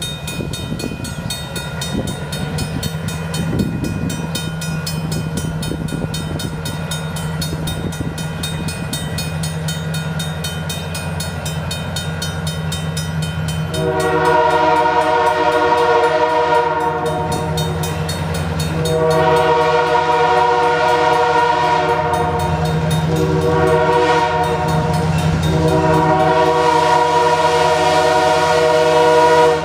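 EMD GP7 diesel locomotive's engine running steadily as the train passes, growing a little louder over the first half. From about halfway its Nathan K3L three-chime horn sounds the grade-crossing signal: two long blasts, a short one, then a long one.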